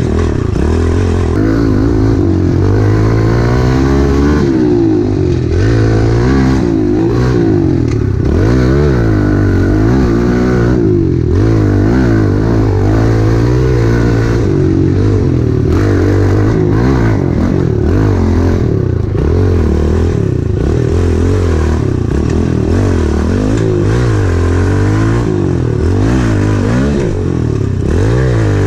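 Small single-cylinder pit bike engine being ridden, its revs rising and falling again and again as the throttle is worked.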